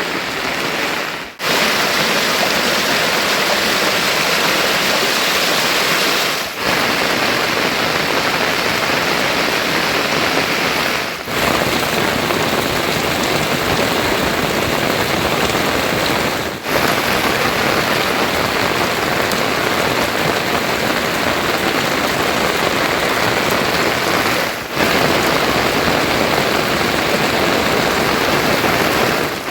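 Heavy monsoon rain falling, a steady loud hiss that dips briefly five times.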